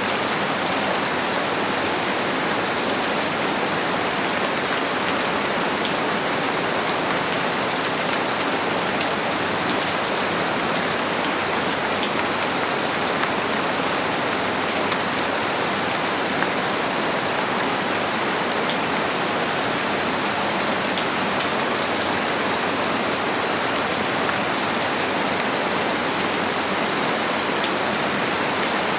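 Steady heavy rain: a dense, even hiss of rainfall with many small drop patters, no thunder.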